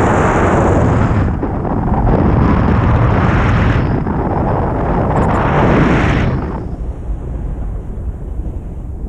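Strong wind buffeting the action camera's microphone, a loud rumbling rush that comes in gusts and eases about two-thirds of the way through.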